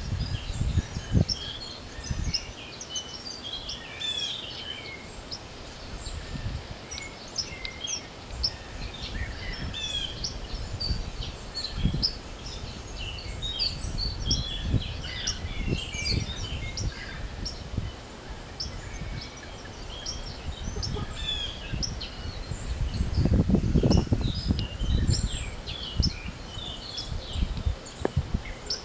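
Many small birds chirping and singing together in spring, over gusts of wind buffeting the microphone, with a stronger gust near the end.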